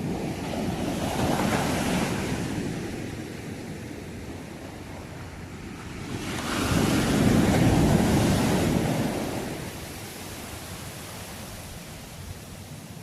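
Sea waves breaking and washing up the shore: two swells, the first building about a second in and the second, louder one peaking around the middle, each falling back to a steady hiss of surf.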